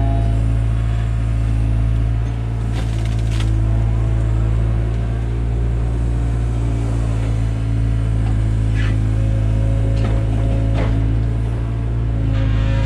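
Takeuchi TB175 compact excavator's diesel engine running steadily under hydraulic work, with a few short knocks and clanks, a couple about three seconds in and more near the ten-second mark.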